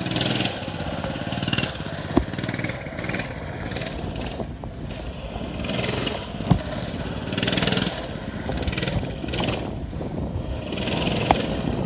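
Small pull-start dirt bike engine running as it is ridden, with surges of noise every second or two and a sharp knock about six and a half seconds in.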